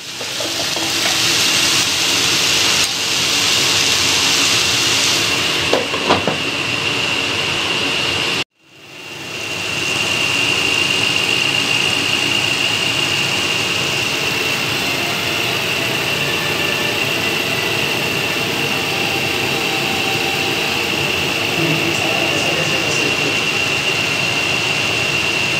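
Ridge gourd and potato sabzi sizzling steadily in a kadhai over the gas flame, with a brief knock about six seconds in. The sizzle drops out for a moment about eight seconds in and then carries on.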